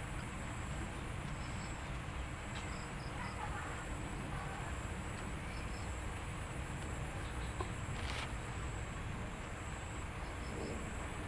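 Insects chirping in the background: a steady high trill, with short triple chirps repeating every few seconds, over a low steady rumble. One sharp click about eight seconds in.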